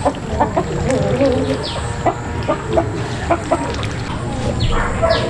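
Chickens clucking in a string of short calls, with a few high falling chirps among them.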